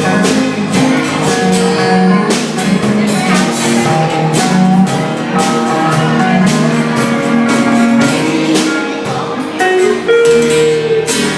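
Live band music with guitar and drums, loud and steady, with sharp drum and cymbal hits throughout.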